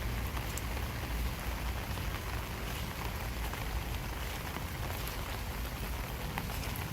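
Steady summer rain falling, an even hiss with scattered individual drops ticking.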